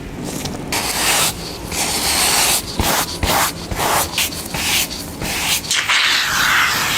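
Repeated hand strokes rubbing across the leather of a handbag during repair, each a short scratchy hiss, with one longer continuous stroke near the end.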